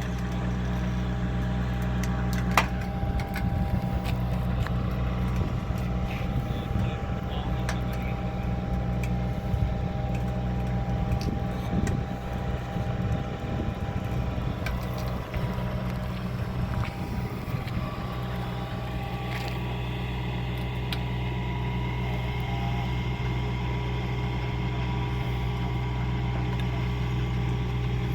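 Heavy diesel engine idling steadily, a constant low drone, with a few short knocks in the first few seconds.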